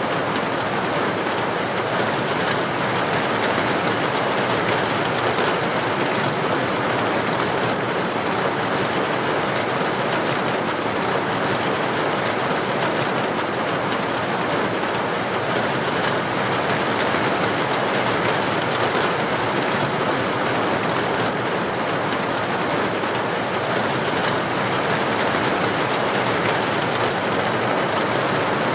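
Heavy rain falling on a street: a dense, even hiss that holds steady, with no thunderclap standing out.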